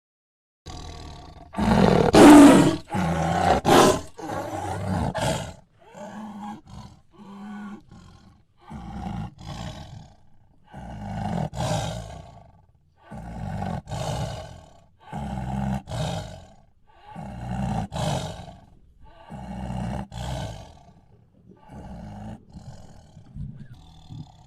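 A tiger roaring: one loud, drawn-out roar, then a series of shorter roars repeating about every two seconds and fading toward the end.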